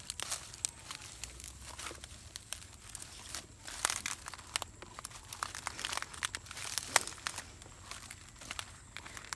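Dry plant material being handled and worked by hand: irregular crackling and rustling with scattered sharp clicks, the loudest about 4 and 7 seconds in.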